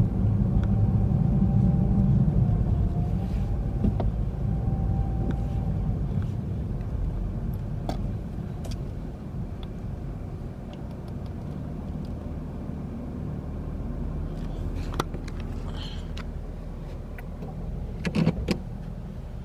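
Low, steady rumble of a car under way, heard from inside, gradually easing off, with a few sharp clicks near the end.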